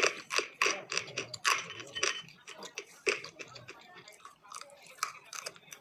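Close-miked chewing of crunchy dry clay snack pieces: irregular crisp crunches, coming thick and fast for the first three seconds, then sparser and softer.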